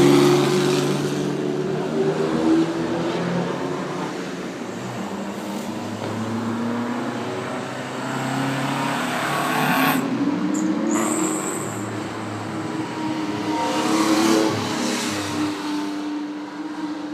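Old cars' engines running as the cars drive past one after another. The sound is loudest at the start and swells again about fourteen seconds in.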